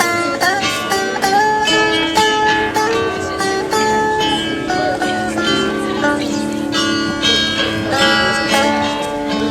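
Live acoustic guitar music, an instrumental passage: a picked melody with some sliding notes over sustained lower notes.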